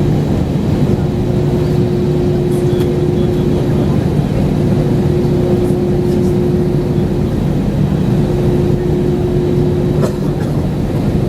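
Steady engine and airflow noise inside an airliner cabin, loud and unbroken, with a constant low hum.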